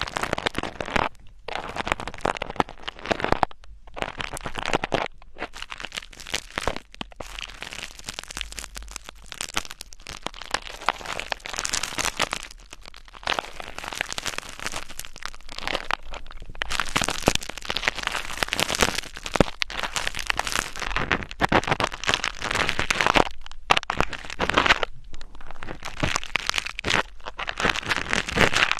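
Crackly ASMR scratching and rubbing close to the microphone, in irregular strokes with brief pauses between them.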